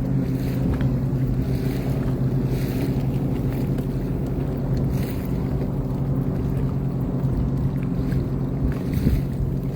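Engine of a Sea-Doo Fish Pro personal watercraft running at a steady pitch, with water and wind noise on the microphone.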